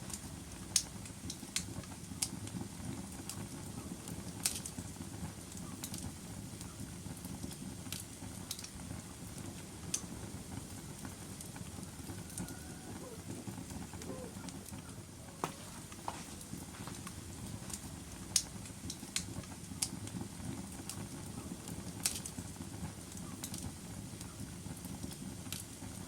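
Wood fire burning in a fireplace: a steady low rush of flame, with sharp crackles and pops from the burning logs at irregular moments every second or two.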